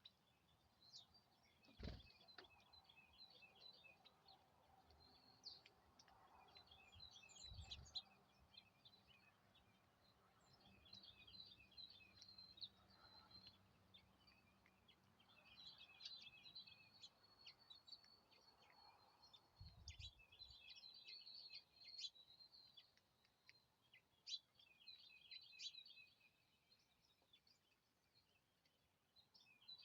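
Small songbirds chirping and twittering faintly, in rapid runs of short high notes that come and go. A few dull low thumps are heard.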